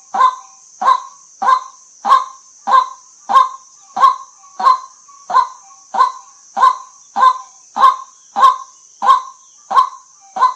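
White-breasted waterhen giving its monotonous "kwak" call over and over, one short call about every 0.6 seconds, with a steady high hiss behind.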